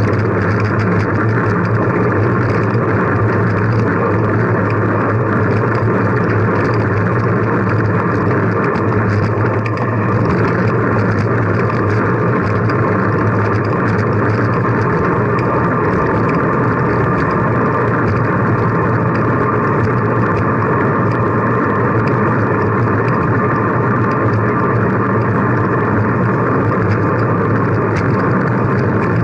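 Steady rush of wind and road noise on a camera microphone carried on a moving bicycle, with a constant low hum and no break.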